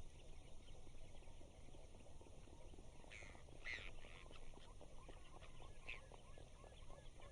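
Faint outdoor ambience full of bird calls, with a few louder calls about three to four seconds in.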